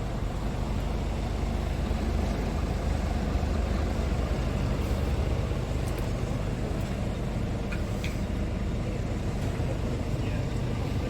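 Scania R450 truck's diesel engine running steadily at a constant low speed, a deep even hum with no revving.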